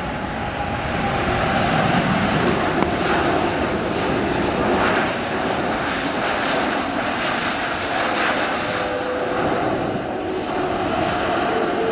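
Jet engines of a landing Airbus A330-900neo, its Rolls-Royce Trent 7000 turbofans. The engine noise builds over the first two seconds and then stays loud and steady, with a faint whine that sinks slightly in pitch.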